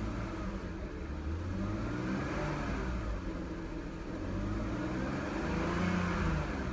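2005 BMW 325i's straight-six engine being revved up and let back down twice. It revs up smoothly.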